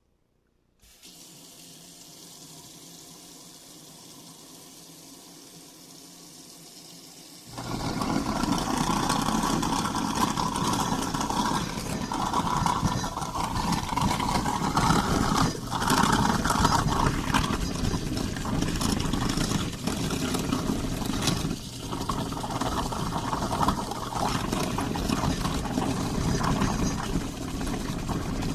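Water running steadily into a kitchen sink. About seven seconds in, a garbage disposal switches on and runs loudly, churning and rattling unevenly as it grinds whole overripe lemons.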